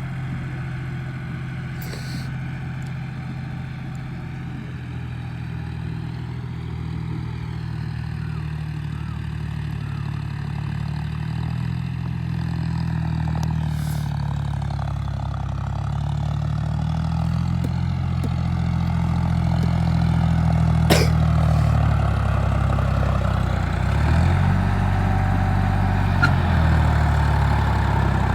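John Deere 5045 tractor's three-cylinder diesel engine running steadily. It grows gradually louder, and its note shifts a few times in the second half. There is a sharp click about two-thirds of the way through.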